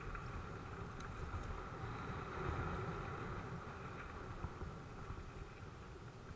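Mountain bike riding over a dirt track: a steady rumble of tyres and wind on the microphone, with a couple of light clicks from the bike.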